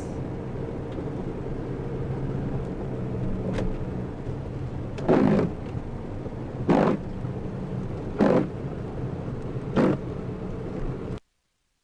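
Car engine running steadily while driving, with four short noisy swishes evenly spaced about a second and a half apart in the second half. The sound cuts off abruptly near the end.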